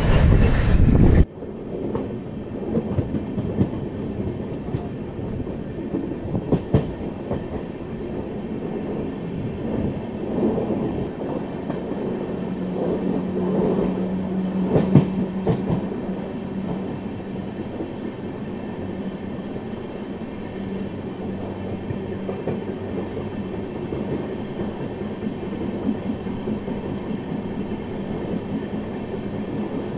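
Express train running at speed, heard from its open coach door: a steady rumble of wheels on rails with scattered clicks over rail joints. A loud rush at the start cuts off suddenly about a second in.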